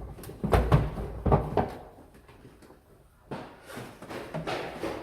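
Several sharp knocks and clunks of the plastic eSpring water-filter unit being handled as it is lifted off its wall bracket, a pause, then more light handling knocks.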